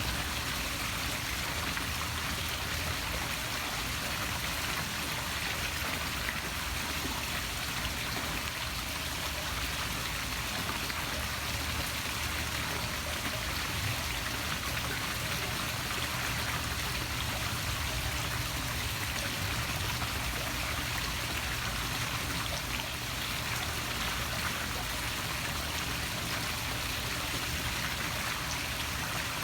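Steady splashing of a poolside waterfall pouring into a swimming pool.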